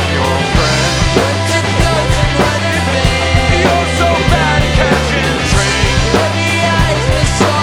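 Rock band playing the song live, with a drum kit keeping a steady beat under the other instruments.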